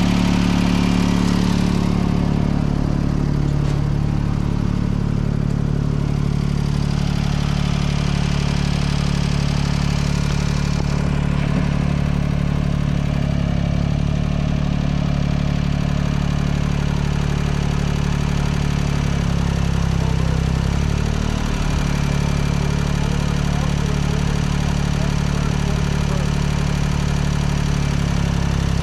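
Engine running steadily at idle, with a brief change in its pitch about twenty seconds in.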